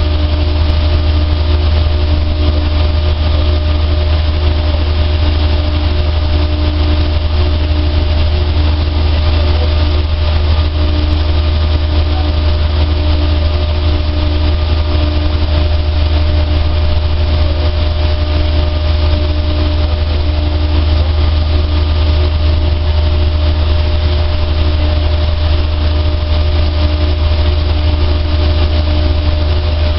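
A dryer machine running steadily: a strong, deep, constant hum with a few steady tones and an even whir above it, unchanging throughout.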